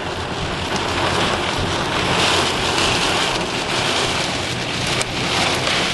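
Steady, loud rush of rain and wind around a moving vehicle, with the engine and road hum underneath.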